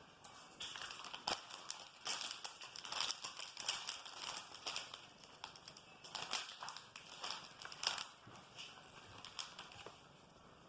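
Crisp chocolate hazelnut wafer being crunched and chewed close to the microphone, a dense run of irregular crackles that thins out near the end.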